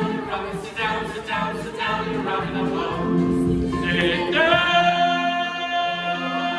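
A group of voices singing a show tune's closing line with accompaniment, ending on a long held note from about four seconds in.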